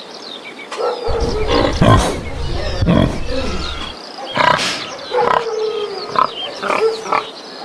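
Animal calls: low, rough grunting through the first half, a sharp squeal about four and a half seconds in, and short high chirps throughout.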